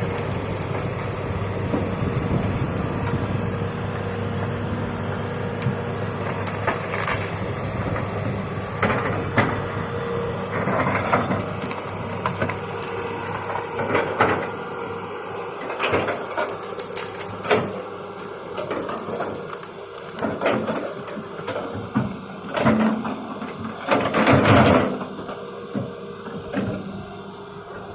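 Excavator engine running steadily while wood cracks and crunches as trees and brush are broken and pushed over. Partway through the engine eases off and the cracking grows louder, with the loudest crunch about three quarters of the way in.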